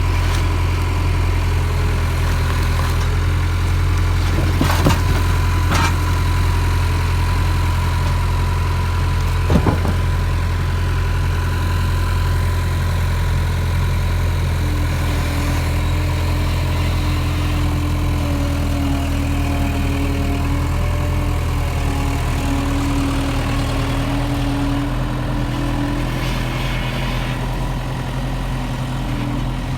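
Tractor engine idling steadily, with a few sharp clicks about five, six and ten seconds in.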